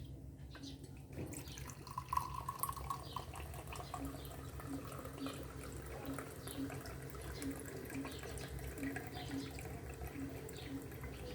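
Cachaça being poured by the cup into a pot for quentão: a steady trickle of liquid, with a faint tone about two seconds in.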